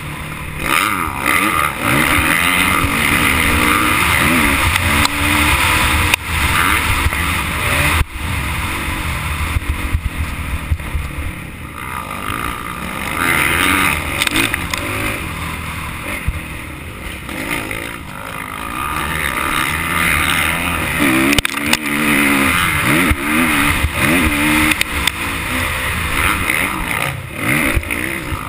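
Motocross bike engine being ridden hard, its pitch rising and falling repeatedly as the rider revs, accelerates and backs off.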